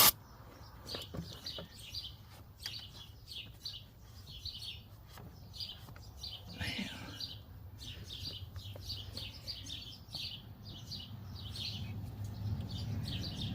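Small birds chirping, short high chirps repeated about twice a second, over a low hum that grows louder near the end.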